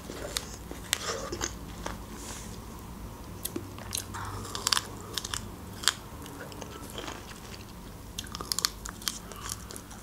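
Close-miked biting and chewing of pomegranate seeds: scattered sharp crunches and wet pops at an uneven pace, with no speech.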